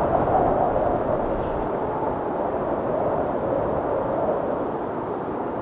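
Wind blowing steadily across the microphone, a continuous rushing noise.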